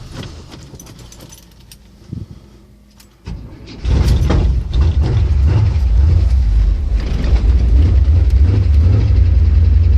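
A few key clicks, then about three seconds in a carbureted 406 small-block Chevrolet V8 turns over briefly and catches, running on steadily with a loud low rumble. It is a cold start in about 8°F with a Holley four-barrel carburetor that has no choke.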